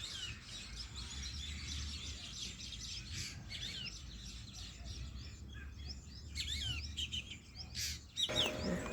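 Many small birds chirping and calling over one another in quick rising and falling notes, over a low steady hum. A louder sound comes in near the end.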